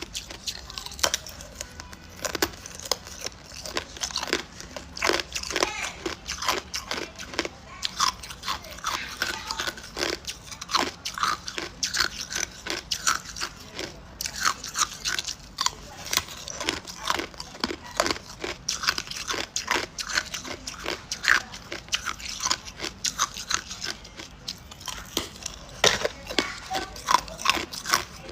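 Hard ice cubes being bitten and crunched between the teeth: a continuous, irregular run of sharp cracks and crunches, several a second, with chewing.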